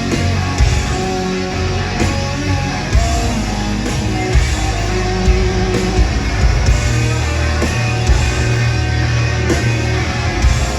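Live rock band playing a loud, heavy passage with distorted electric guitars, bass and pounding drums, with no vocals.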